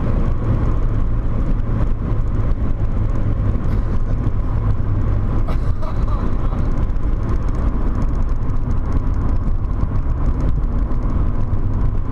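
Volkswagen Corrado 1.8 16V's four-cylinder engine running hard at track speed, heard from inside the cabin as a loud, steady low rumble mixed with road noise.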